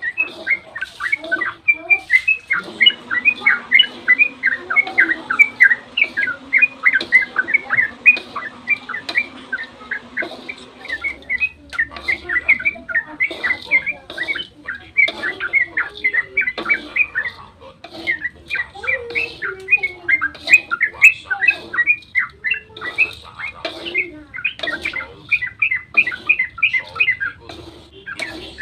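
Yellow-vented bulbul (trucukan) singing a long, unbroken run of rapid chirping notes, many per second, the fast 'ropel' song.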